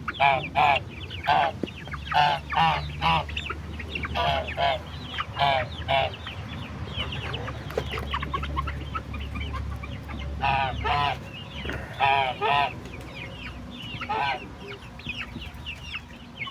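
Chickens calling in bunches of short, arching calls. The calls thin out for a few seconds in the middle, then pick up again.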